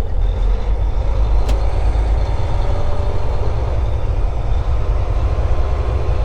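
Semi-truck's diesel engine running as the truck rolls slowly, heard from inside the cab as a steady low rumble, with one brief click about a second and a half in.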